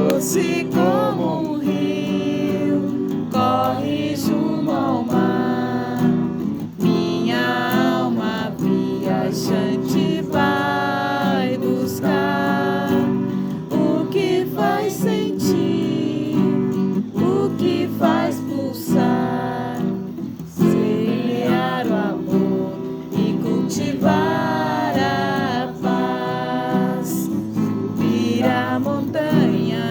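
A voice singing a song over strummed acoustic guitar.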